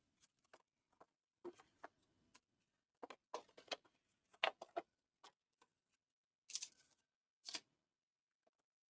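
Faint handling of folded paper pieces: scattered light taps and clicks, with two short crisp rustles about two thirds of the way through, as the folded squares are slotted together and pressed into place.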